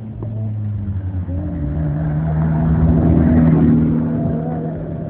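A motor vehicle passing close by. Its engine note steps up in pitch, grows louder to a peak about three and a half seconds in, then fades.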